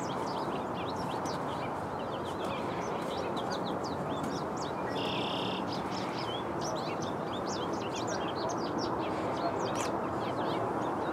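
Small birds chirping in quick, short calls, many overlapping, over a steady low background rumble, with one brief buzzy note about five seconds in.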